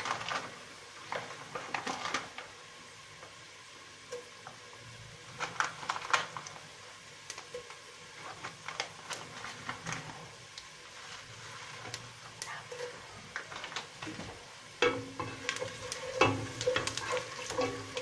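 Onions and whole pilau masala spices frying in oil in an aluminium pot, crackling with scattered small pops. Near the end a wooden spatula stirs, scraping and knocking against the pot.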